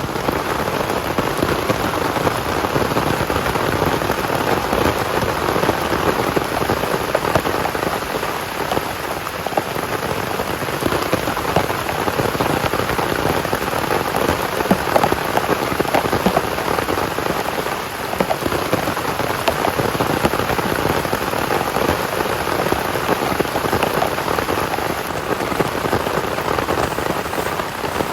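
Heavy rain falling steadily, a dense patter of many small drops hitting surfaces.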